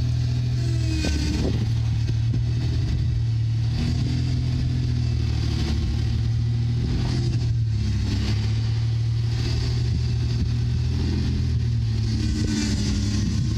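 Rock-crawling SUV's engine running steadily at low revs as the vehicle crawls down a rocky slope, its pitch shifting only slightly.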